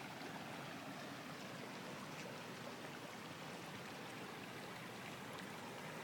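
Faint, steady rush of flowing floodwater.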